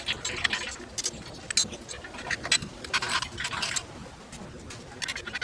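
Metal hand tools and bolts being handled: irregular light metallic clinks, rattles and brief scrapes.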